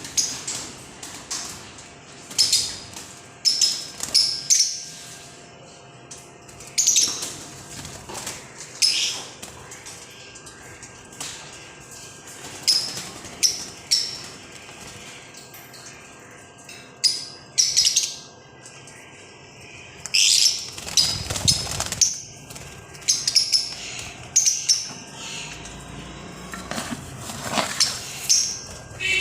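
Pet green parrot giving short, shrill chirps and calls, one after another every second or so.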